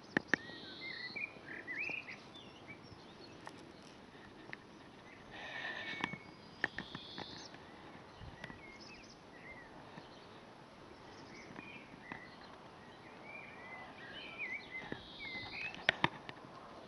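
Faint bird chirps, short and scattered, over a low background hiss, with a few sharp clicks in small clusters.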